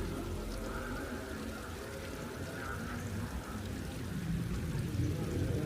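Rain falling steadily, with a low rumble that grows about four seconds in.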